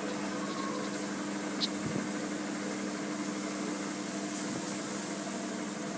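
Microwave oven running in convection mode, a steady hum from its fan and motor while it bakes at 150 degrees.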